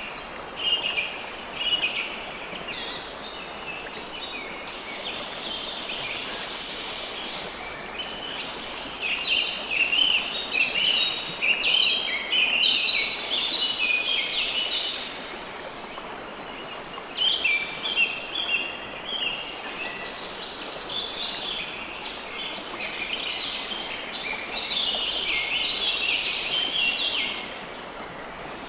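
River water flowing steadily, with many small birds chirping over it. The chirping comes in busy spells, thickest about a third of the way in, again near the middle and shortly before the end.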